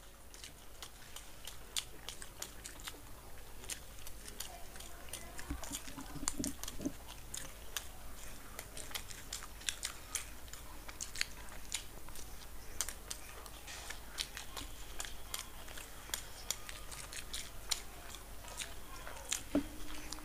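Two people biting into and chewing soft sandwiches, close to the microphone: a steady run of small wet mouth clicks and chewing sounds.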